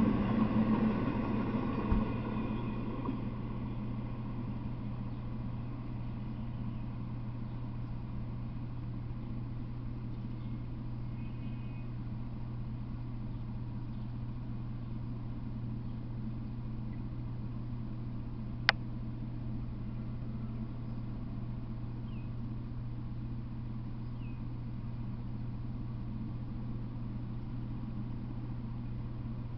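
Tail end of a freight train's double-stack container cars rolling past on the rails, fading away over the first few seconds. After that a steady low hum remains, with one sharp click about two-thirds of the way through.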